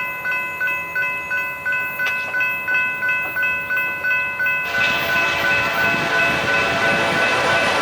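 Railroad crossing bell ringing, about three strokes a second. About two-thirds of the way in, the loud rush of a freight train passing at about 50 mph comes in over the bell.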